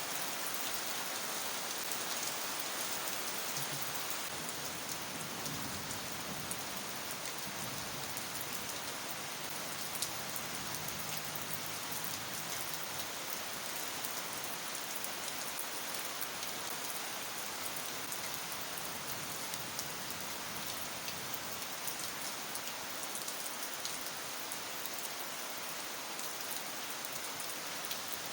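Heavy tropical rain falling steadily, a dense even hiss with countless small drop ticks on nearby surfaces.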